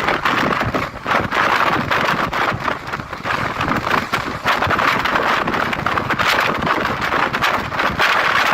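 Train moving along the track: a steady rush of wheel-on-rail noise and rattling, with many small clicks throughout and some wind.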